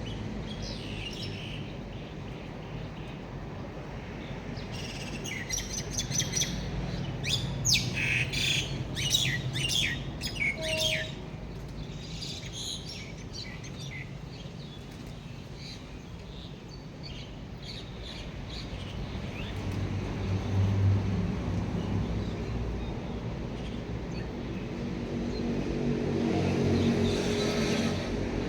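Birds chirping in a quick run of short, high calls, thickest about five to eleven seconds in, over a steady low rumble that swells twice in the second half.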